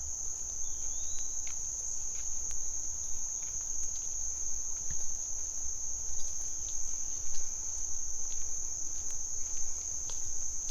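Forest insects, crickets or cicadas, keeping up a steady, unbroken high-pitched drone, over a faint low rumble.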